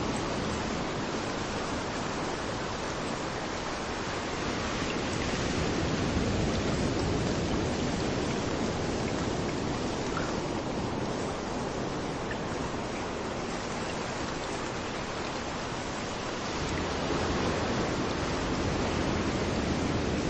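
Rain falling with waves rolling in on a beach: a steady wash of noise that swells slowly, once about six seconds in and again near the end.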